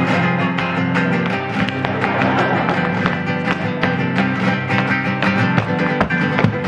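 Flamenco guitar music, strummed and plucked, with many sharp taps through it: the footwork of flamenco dancing shoes.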